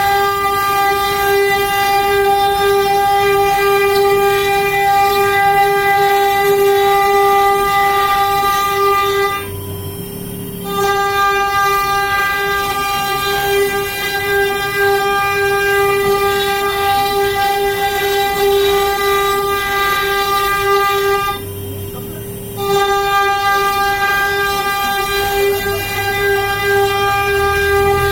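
CNC router spindle running at a steady high whine while the bit carves wood, the tone rich in overtones. Twice, about 9 and 21 seconds in, the overtones drop away and it goes quieter for about a second while the base tone of the spindle carries on.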